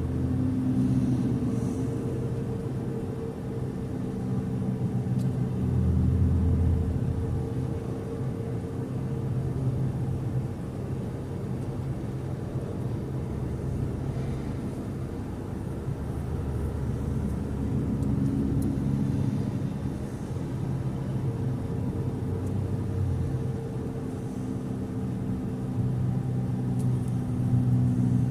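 A car driving: a steady low engine hum and road rumble that swells and eases a few times as the speed changes.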